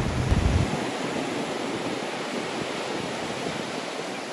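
Ocean surf washing onto a beach, a steady rush of noise, with wind rumbling on the microphone until about half a second in.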